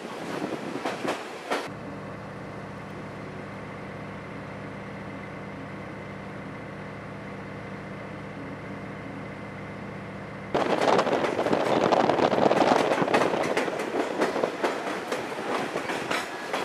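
Ride in a Chihuahua-Pacific passenger train: wheels clattering over the rails with wind noise. It cuts abruptly to a steady low mechanical hum of several even tones for about nine seconds, then jumps back to louder rail clatter and wind.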